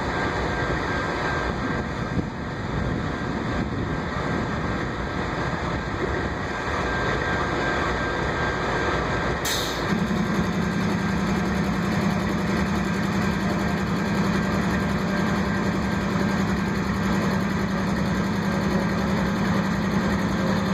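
Steady engine and vehicle noise with no speech; about halfway through, a brief hiss is followed by a steady low hum that carries on to the end.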